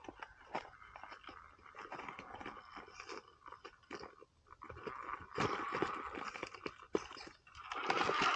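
RC scale crawler truck crunching and scraping over rock and dirt, with many small clicks and crackles. A faint drivetrain whine comes and goes underneath, and the loudest burst of crunching comes near the end.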